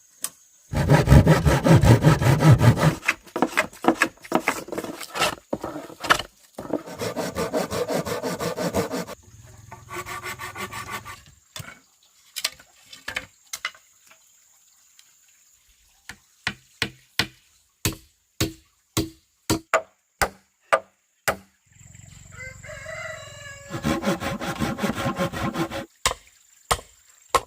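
Handsaw cutting bamboo in several bursts of quick, rasping strokes, with a stretch of separate sharp knocks in between.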